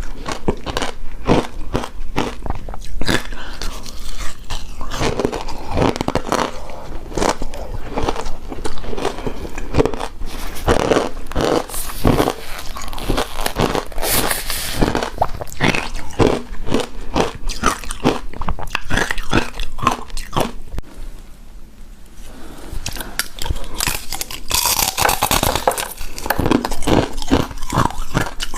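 Close-up eating sounds of icy shaved-ice dessert: dense, irregular crunching and chewing of ice bites, with a quieter pause about three quarters of the way through.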